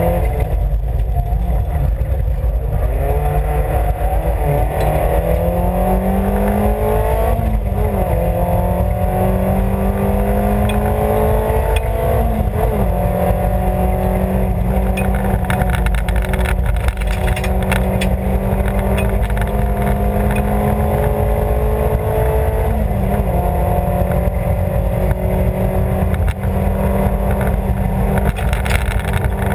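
Rally car engine at full stage pace, heard from inside the cabin: its pitch climbs slowly and drops back at gear changes several times, over loud, steady road and tyre noise.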